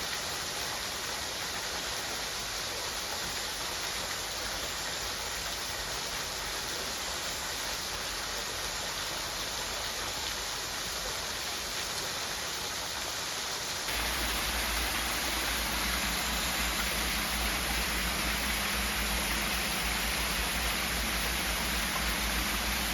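Steady rushing noise with no pitch or rhythm, which gets louder and deeper about fourteen seconds in.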